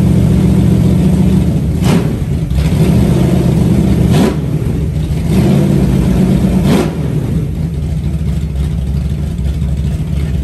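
Freshly built 360 stroker V8 on its first run, running loudly with its speed rising and falling in three short revs, about 2, 4 and 7 seconds in, then settling back to a steadier idle.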